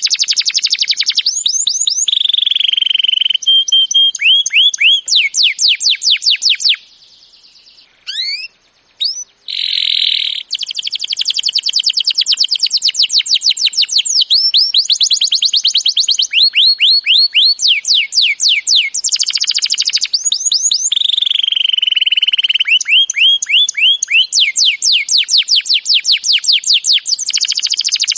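Canary singing in long rapid rolls of repeated down-sweeping notes, with a short break of a few single notes about seven seconds in. It is a masteran recording of canary song, played to coax canaries that have stopped singing back into song.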